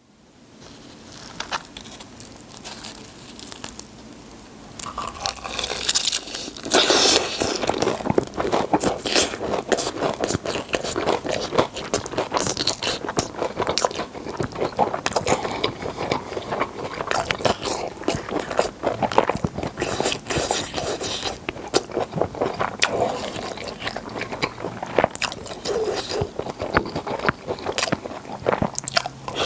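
Close-miked biting, crunching and chewing of crispy Bburinkle fried chicken drumsticks, the coating crackling. Softer at first, then loud and dense from about five seconds in.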